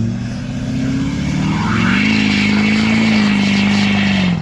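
Mud truck engine revving hard under load, with a rough rushing noise over it. The revs climb about two seconds in, hold high, then drop off sharply near the end.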